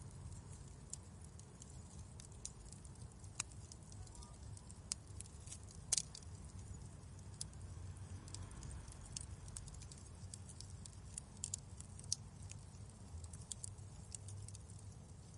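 Wood fire crackling in a fireplace: irregular sharp pops and snaps over a low, steady rumble, with one louder pop about six seconds in.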